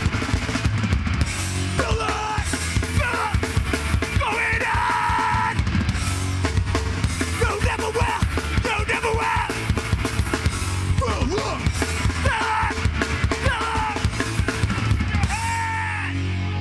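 Heavy metal band playing live: distorted guitars and fast drumming under yelled vocals. About a second before the end the drums stop and a chord rings on.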